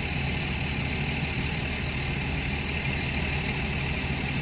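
Vehicle engine idling steadily: a low, even hum with no changes.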